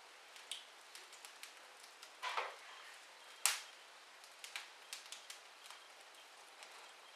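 Wood fire crackling in a fireplace: scattered small crackles over a faint hiss, a longer hissing crackle just after two seconds and one louder sharp pop about three and a half seconds in.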